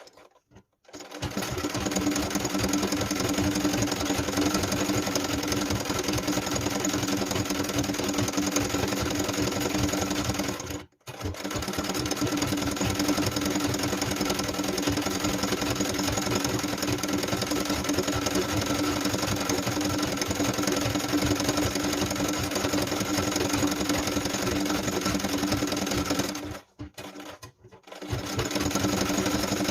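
Sewing machine stitching steadily at a fast, even rate for karakafa machine embroidery. It stops briefly about eleven seconds in and twice more near the end.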